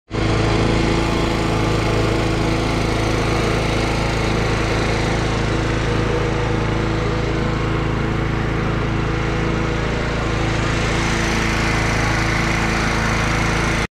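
Motorised sugarcane juice crusher running steadily, a constant machine drone with no change in speed.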